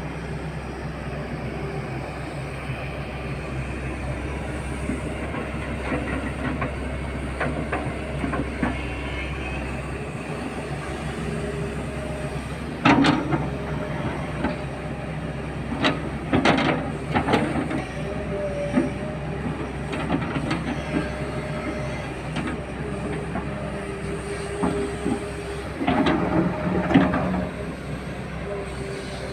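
Heavy loading machine's diesel engine running steadily while coal slurry is loaded onto a truck, with short bursts of loud clanking and knocking about halfway through, again a few seconds later, and near the end.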